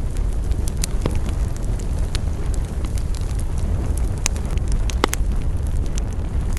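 Wood campfire burning: a steady low rush of flames with scattered sharp crackles, and one louder pop about five seconds in.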